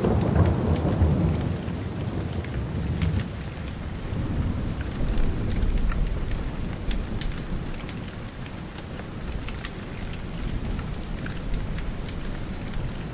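Steady rain falling, with a low rumble of thunder rolling through the first half and dying away.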